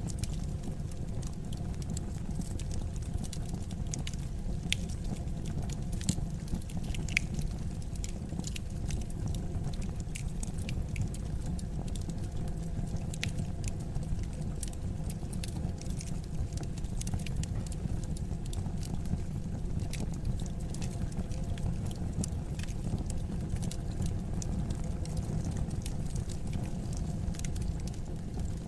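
Wood fire burning in a fireplace: a steady low rumble of flames with irregular sharp crackles and pops, a few louder snaps in the first several seconds.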